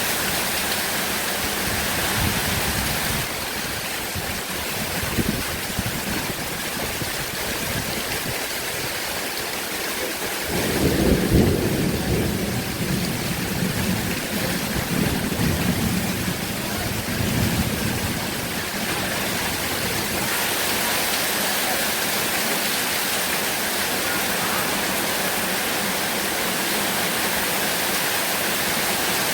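Heavy rain falling steadily. About a third of the way in, a rumble of thunder breaks in suddenly, loudest at its onset, and rolls on in swells for several seconds before dying away.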